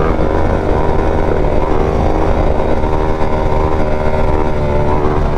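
Motorcycle engine running at a loud, fairly steady pitch, with small shifts in engine speed.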